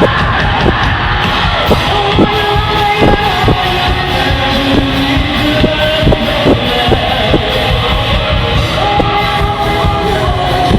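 Live rock band playing: drums and held melodic lines, with singing and crowd yelling.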